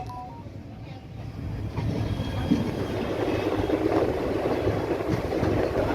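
Passenger train running on the track, a steady rumble of wheels and coach that grows louder about a second in and then holds.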